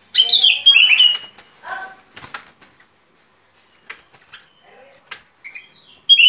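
Bulbul (bông lau) song: a loud, bubbly phrase of quick notes in the first second, scattered quieter calls and clicks through the middle, and another loud phrase starting near the end.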